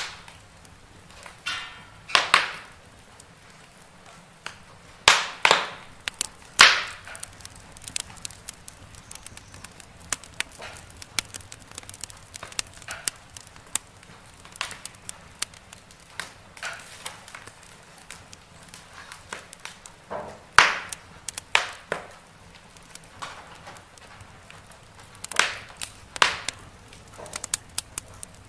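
Wood fire crackling in a fireplace: irregular sharp pops and snaps, a few much louder than the rest, over a low steady background.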